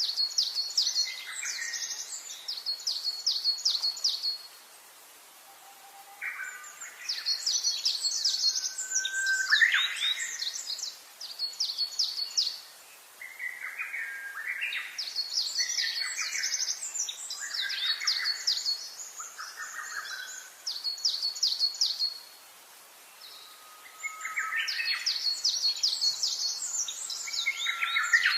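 Songbirds singing in bouts of several seconds: fast, high trills with lower chirping notes underneath, broken by short pauses.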